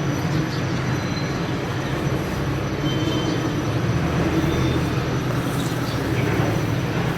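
Steady low rumbling background noise with a hum, holding at an even level throughout.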